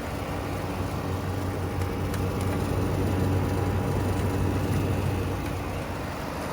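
Hisense window air conditioner running, heard from its outdoor side: a steady rush of the condenser fan with a low compressor hum, the hum a little stronger in the middle and easing near the end.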